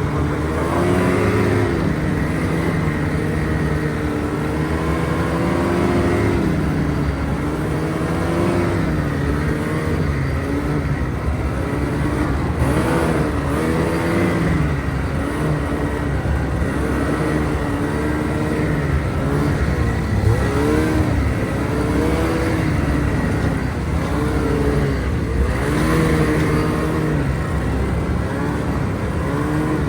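A vehicle engine running under load, its pitch climbing and dropping again and again, every second or two, as the throttle is worked and eased.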